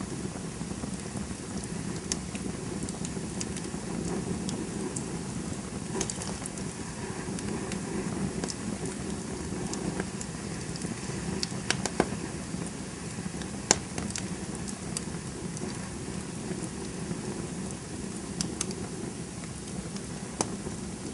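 Campfire burning: a steady low rushing of the flames with scattered sharp crackles and pops of burning wood, a few louder snaps now and then.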